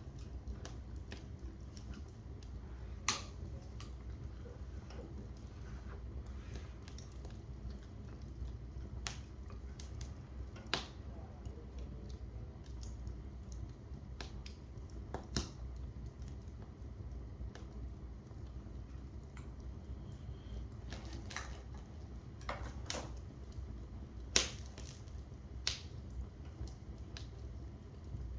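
Wood fire burning in a fireplace, crackling with sharp, irregular pops over a steady low rush, the loudest pop near the end.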